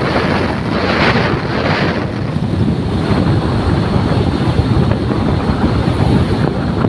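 Strong wind buffeting the microphone: a loud, continuous rushing noise that rises and falls in gusts.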